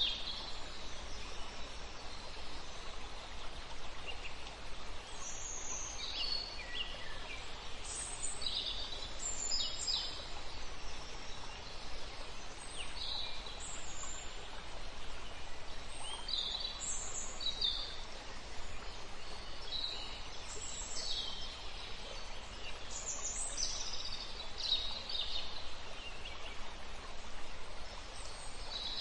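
Small birds chirping on and off, short high chirps every second or so, over a steady background hiss.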